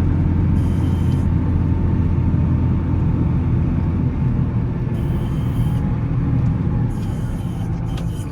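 Volvo L70C wheel loader's diesel engine running steadily with a low drone while plowing snow. The drone eases a little in the second half.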